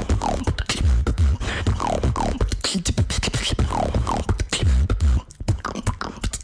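A female beatboxer performing a fast beat with deep bass kicks, sharp clicks and short falling pitch sweeps. The beat thins out about five seconds in.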